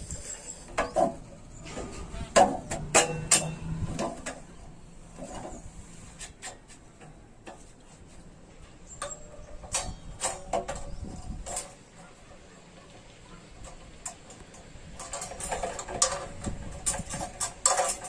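Irregular clicks, taps and knocks of hand tools on metal parts, in a busy run at the start, a few scattered ones in the middle and another busy run near the end.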